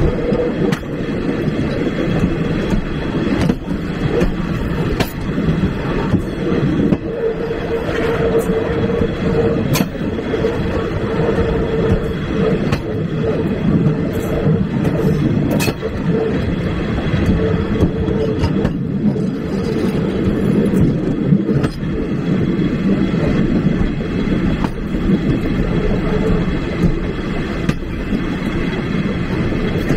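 Railway passenger carriage rolling along the track: a steady rumble, with the wheels clicking over rail joints at uneven intervals and a humming tone that comes and goes.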